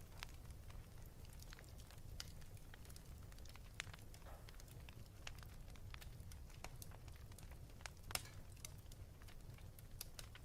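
Wood fire crackling in a fireplace: faint, irregular pops and snaps, one sharper pop about eight seconds in, over a low steady rumble.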